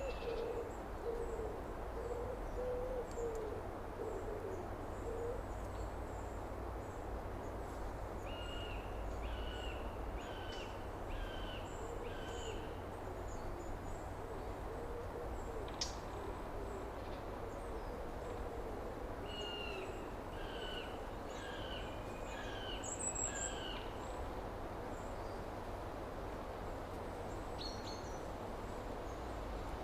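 Outdoor birdsong: one bird repeats a short, falling whistled note in two runs of about five notes, over a lower wavering call and a steady background hiss.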